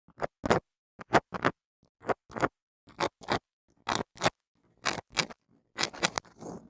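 A small object scraped across a microphone in short, sharp strokes, mostly in pairs about once a second, changing to a softer, continuous rustle near the end.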